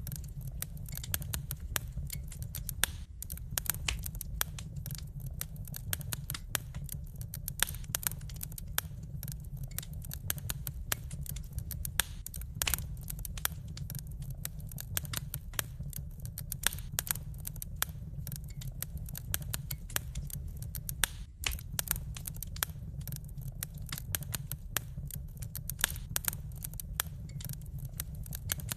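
Wood fire crackling in a fireplace: a dense, irregular run of sharp pops and snaps over a steady low rumble of the burning flames.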